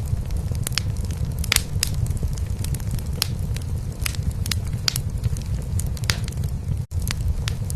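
A cat purring, a steady low rumble, with a wood fire in a fireplace crackling over it in irregular sharp pops. The whole sound drops out for an instant near the end.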